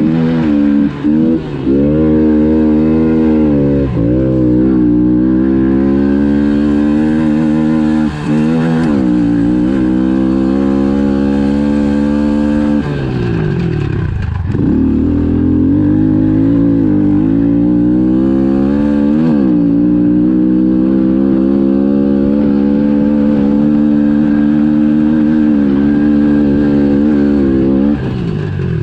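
110 cc pit bike's single-cylinder four-stroke engine being ridden hard at high revs. Its pitch drops and climbs back several times as the throttle is rolled off and on, with a longer dip about halfway through before it pulls back up.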